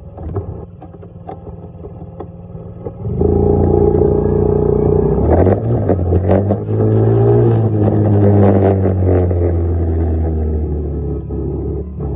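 Dirt bike engine running, quieter at first. About three seconds in it gets much louder, then revs up and down before settling.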